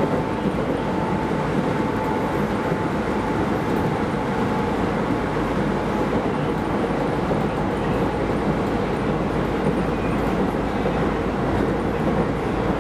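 Keisei Line rapid train running, a steady train running noise heard from inside the leading car, with a faint whine that fades out about halfway.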